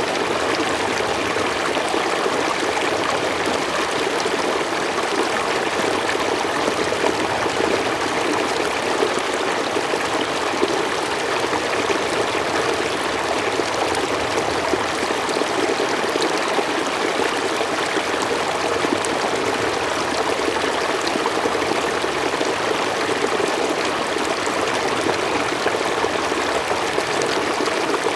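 Mountain stream flowing steadily over rocks: a constant, even rushing of water with fine splashing and trickling.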